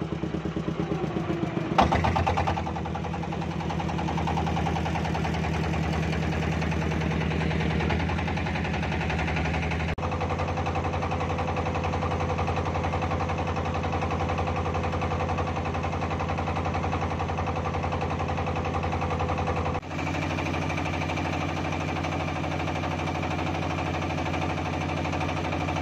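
Fishing boat's engine running steadily under way, with a fine rhythmic beat and a sharp knock about two seconds in. The engine note changes abruptly twice, about ten and twenty seconds in.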